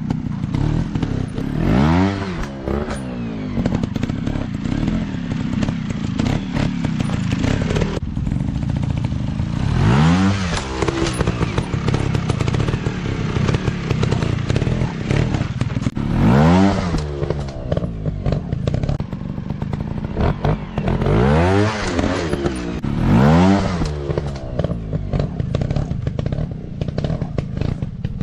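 Dirt bike engines running and revving hard several times, each rev rising in pitch and falling back, with scattered clattering knocks.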